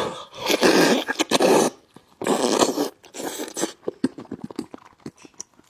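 Loud wet slurping and sucking while eating braised fish head: two long noisy pulls in the first three seconds, then a run of quick chewing and lip-smacking clicks.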